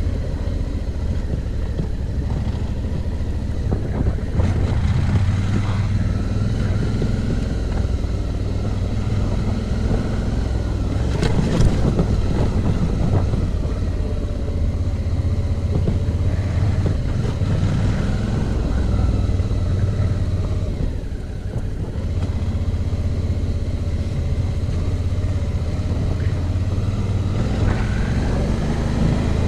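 Suzuki V-Strom adventure motorcycle engine running steadily on a rough dirt road, its pitch rising and falling a little with the throttle, with occasional knocks from bumps, one sharper knock near the middle.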